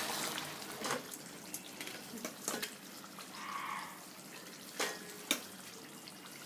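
Faint liquid sounds from cooking gravy in a wok, with a few scattered light clicks and knocks of kitchen utensils.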